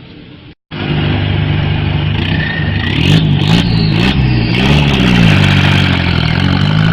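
Motorcycle engine revving, its pitch rising and falling again and again. It starts loud right after a short break about half a second in.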